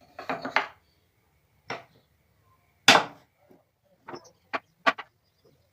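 Pieces of pallet wood knocking and clacking together while being handled and set in place, irregular sharp knocks with the loudest about three seconds in and a quick run of lighter ones near the end.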